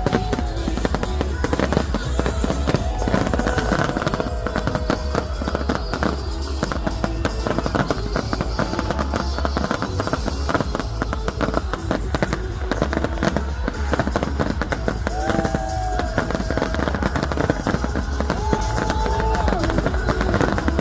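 Fireworks display going off continuously, with many rapid bangs and crackles, and music playing along.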